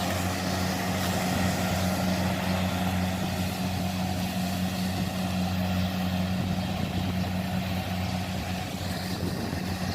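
A diesel engine running steadily at a constant speed, a low even hum with no change in pitch.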